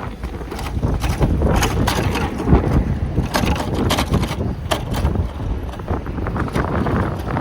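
Wind buffeting the microphone during a bicycle ride, with a steady low rumble and scattered sharp clicks and rattles, most of them in the middle of the stretch.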